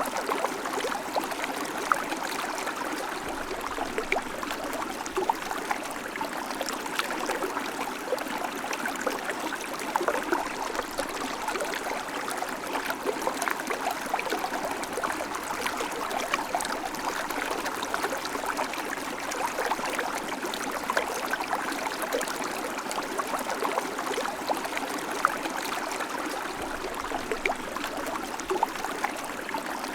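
River water flowing steadily, a continuous rush flecked with many small splashes.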